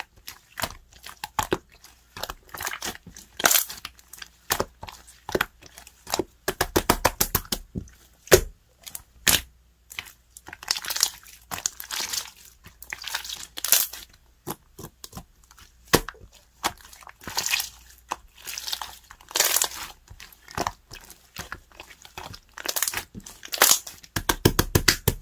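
Clear slime being squished, stretched and pressed by hand, making irregular clicking pops and wet, crackling squelches in quick clusters.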